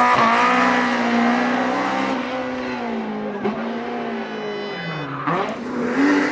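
BMW 3 Series engine held at high revs while drifting, with tyres squealing. About five seconds in, the revs drop sharply and climb straight back up.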